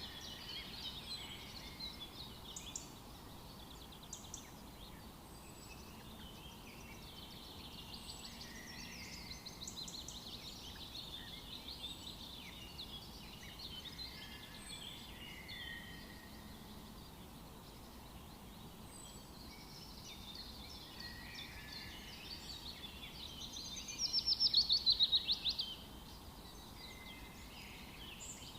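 Several wild birds singing and calling together in a busy chorus of high chirps and song phrases. Late on, one bird gives a louder, rapid trill of notes falling in pitch, lasting about two seconds.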